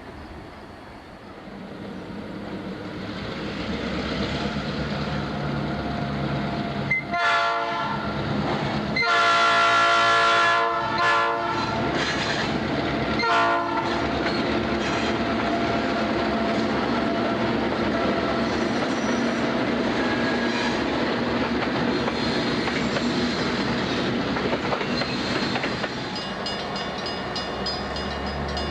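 EMD F-unit diesel locomotives approaching with a freight train, growing louder, their air horn sounding several blasts a quarter of the way in, one of them held about two seconds. The engines and the cars rolling over the rails then run on steadily as the train passes.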